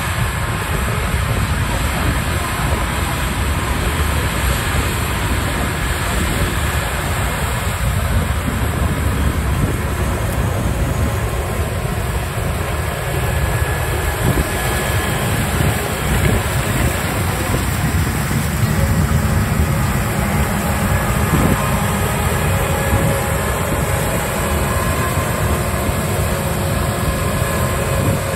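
Combine harvesters and tractors running steadily in the field: a continuous loud rumble with a few faint steady whines above it.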